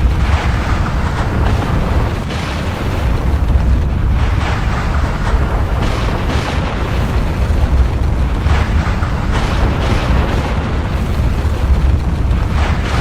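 Volcanic eruption: a continuous deep rumble with louder noisy surges every second or two.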